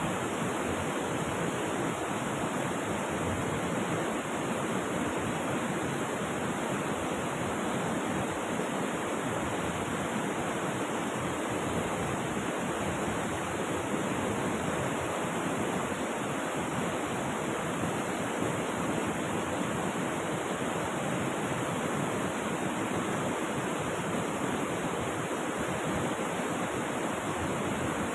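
Steady, unbroken rush of flowing river water, with no distinct splashes or changes.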